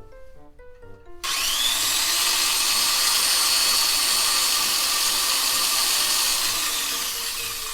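A small electric power tool's motor whirring with a high whine. It spins up about a second in, runs steadily, and winds down near the end.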